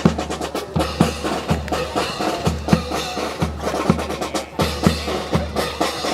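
Marching band drum cadence: bass drum beats at a steady march tempo with sharp, woody clicking strikes on top.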